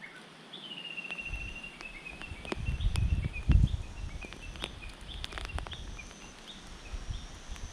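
A bird calling: a drawn-out high note about half a second in, breaking into a string of short chirps, over bouts of low rumbling and a few sharp knocks.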